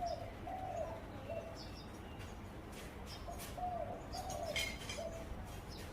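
Zebra dove cooing: two phrases of short, slightly falling coo notes, one at the start and another about three seconds in, with thin high chirps from other small birds.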